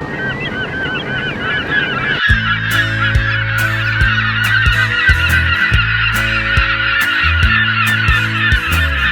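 A flock of gulls calling, many cries overlapping. About two seconds in, music with a bass line and a drum beat starts under them.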